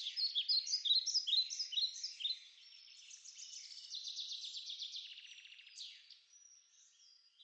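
Bird song: a run of quick, high, down-slurred chirps, then a fast trill from about three seconds in, then fainter chirps near the end.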